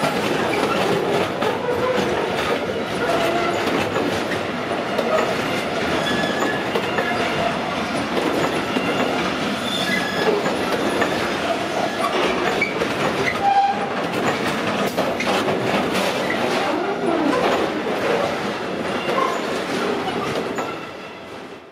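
Long intermodal container freight train rolling past, its wagon wheels clattering over rail joints with many brief wheel squeals. The sound fades near the end as the last wagons clear.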